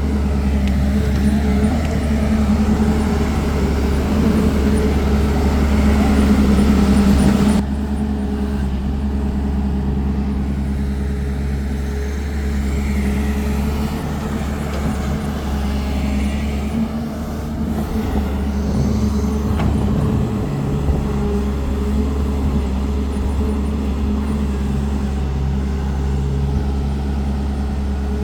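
Heavy diesel engines of an excavator and dump truck running steadily with a low, constant drone. A loud hiss over the engine sound cuts off abruptly about seven and a half seconds in.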